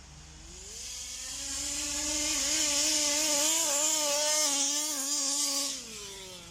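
Zenoah G320 two-stroke engine of a 1/5-scale Rovan Baja RC car on a big bore exhaust, revving up, held at high revs with a wavering pitch, then dropping away near the end.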